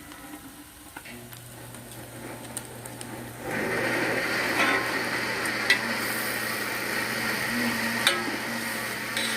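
Chicken pieces sizzling as they are sautéed in a pot, the first stage of a chicken broth, with a few sharp clinks of the utensil against the pot. The sizzling gets clearly louder about three and a half seconds in.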